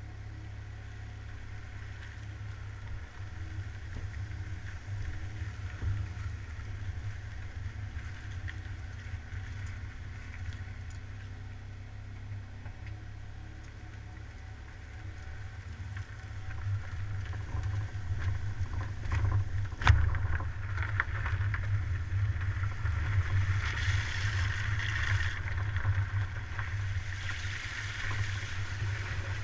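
Car on the move: a steady low rumble of engine, road and wind noise, growing louder in the second half, with one sharp knock about two-thirds of the way through.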